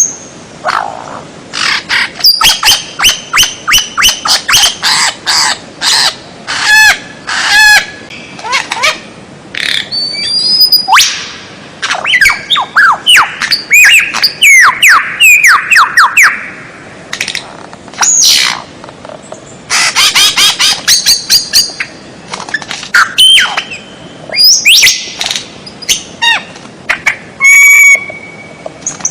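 Continuous, varied songbird song in a masteran tutor recording for training caged songbirds: rapid chattering notes and trills mixed with clear whistles, including a run of quick falling whistles about halfway through.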